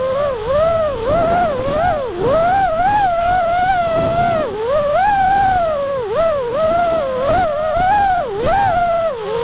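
FPV quadcopter motors and props whining, the pitch swooping up and down continuously as the throttle is worked through the flight.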